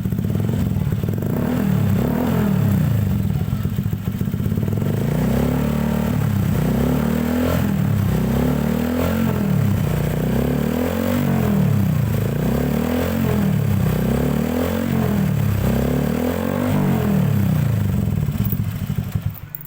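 Honda Vario 125 scooter's single-cylinder engine through an unbranded custom slip-on racing silencer, idling briefly and then revved again and again in quick throttle blips, about a dozen rises and falls, before dropping away near the end. The exhaust note is fairly full and mellow with a slightly hollow tone.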